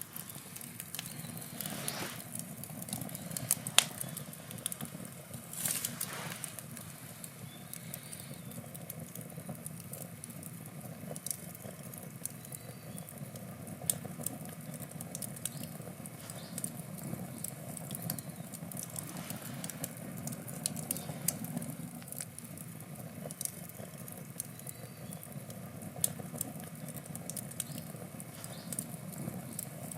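Wood campfire burning, with a steady low rush of flame and frequent sharp crackles and pops from the burning logs. The loudest pop comes about four seconds in, and brief hissing swells rise near two and six seconds.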